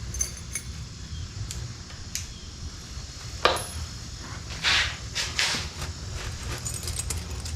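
Keys jingling and small metal clicks and clinks as door lock hardware is handled, with a sharp click about three and a half seconds in and a few more clatters just after.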